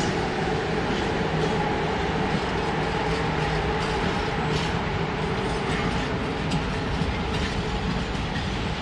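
Freight train of tank wagons passing close by: a steady rumble of wheels on rail with a low, even hum running under it.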